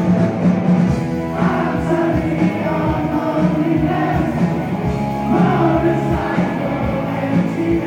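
Live rock band performing, with singing over the instruments.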